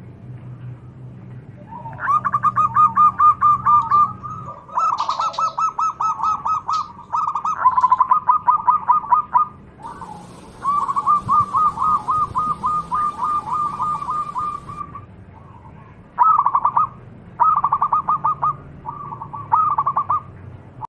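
A bird singing in fast trills of short repeated chirps, about eight to ten notes a second, in bouts of one to two seconds with short gaps between.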